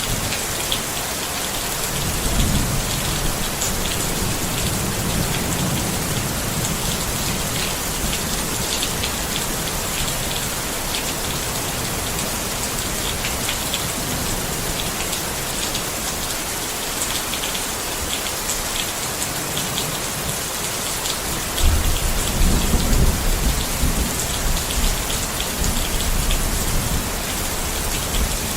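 Steady rain falling on a tent, a dense hiss full of fine individual drop taps. A low rumble swells about two seconds in, and a louder one comes in about 22 seconds in and fades over several seconds.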